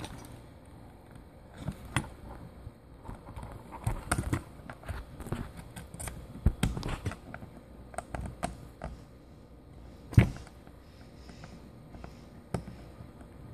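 Irregular small clicks, taps and knocks of hands working on small drone parts while fitting new bearings, with one sharper knock about ten seconds in.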